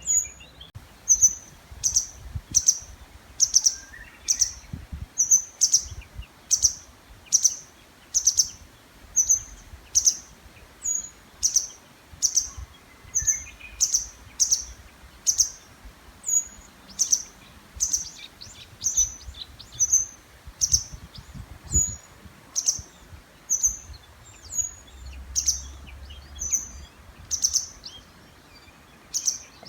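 An unidentified small songbird repeating a short, sharp, high-pitched call about one and a half times a second, without a break. Fainter songs of other birds sit behind it, among them a Japanese bush warbler, over a low steady rumble.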